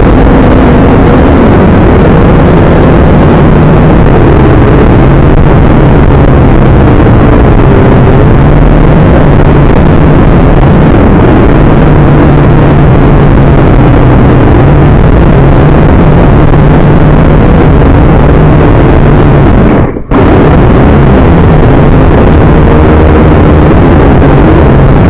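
Quadcopter drone's motors and propellers whirring loudly and steadily, with a low hum and a wavering higher whine. The sound cuts out for a split second about 20 seconds in.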